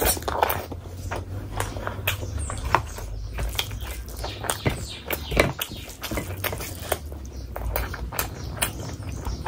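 Close-miked eating of chicken biryani and mutton curry by hand: chewing and wet lip-smacking, with many short, wet clicks and a low steady hum underneath.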